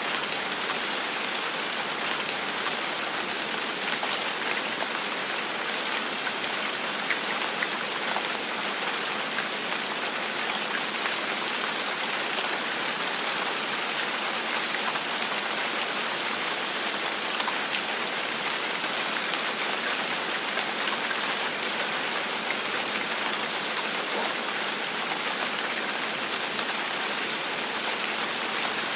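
Steady gentle rain falling and pattering on a surface, with the light ticks of single drops scattered through it.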